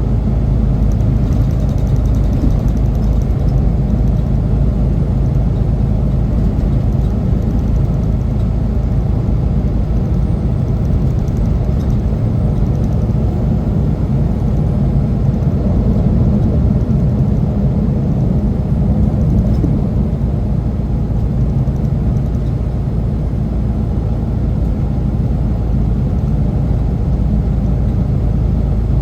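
Steady low rumble of a semi truck on the road: engine and road noise, even throughout.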